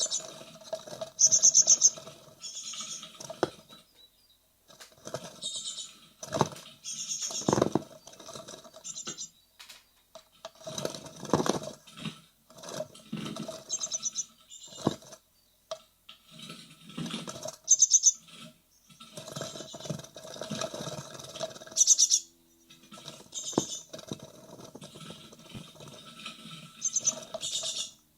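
Great tit nestlings moving about restlessly just before fledging: irregular scratching, scrabbling and light knocks, with repeated bursts of high, rapid calls.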